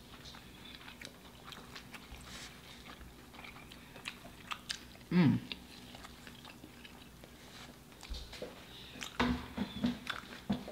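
Close-miked chewing and biting of burgers: moist mouth clicks and smacks. A short, loud vocal sound about five seconds in, and a few more brief ones near the end.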